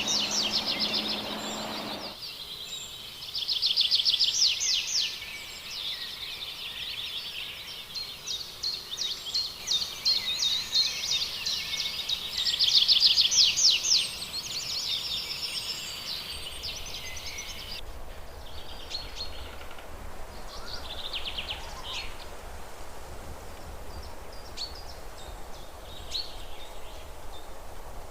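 Songbirds singing in fast trilled phrases, several different birds one after another, with the background changing abruptly a few times. The singing is busiest in the first half; after that the calls are sparser and fainter.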